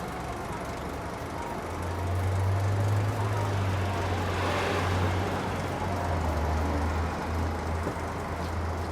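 Road traffic, with a motor vehicle's engine drone coming in close by about two seconds in and holding steady, and a passing swell of road noise around the middle.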